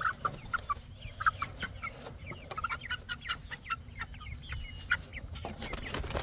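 Chickens clucking: many short overlapping calls from several birds, with a few sharp clicks among them.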